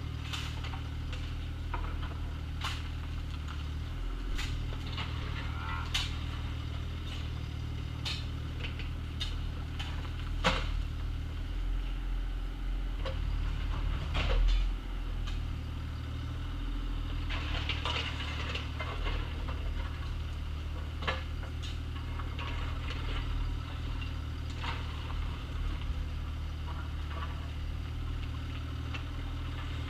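Bobcat excavator's diesel engine running steadily while it digs, with sharp knocks and clanks now and then from the bucket working gravel and dirt. A rougher scraping stretch comes about two-thirds of the way through.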